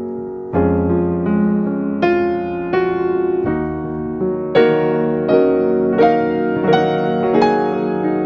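Soft background piano music, notes and chords struck at an even, unhurried pace.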